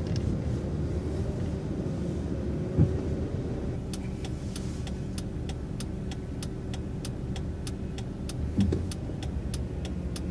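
Transit bus engine running steadily, with the turn-signal flasher ticking evenly about three times a second from about four seconds in, signalling a left turn. Two brief knocks stand out over the hum.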